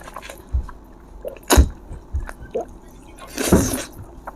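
Wet, squishy food-and-liquid sounds, with a few short knocks, the sharpest about a second and a half in, and a longer wet burst about three and a half seconds in.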